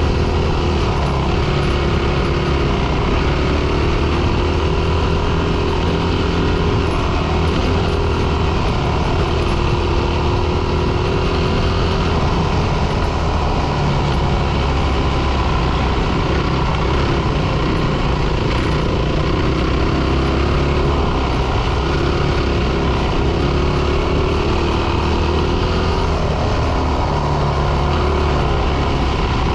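Four-stroke dirt bike engine running steadily under way, its pitch wavering slightly up and down with the throttle.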